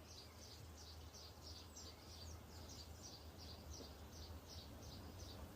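Near silence: faint high chirps repeated evenly, about three a second, over a steady low hum.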